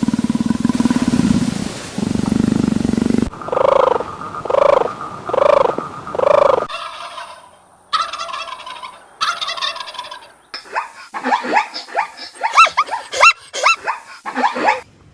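A run of animal calls in separate short takes: a dense, rapid rattling call for about three seconds, then four evenly spaced calls, then a flurry of quick rising chirps in the last few seconds.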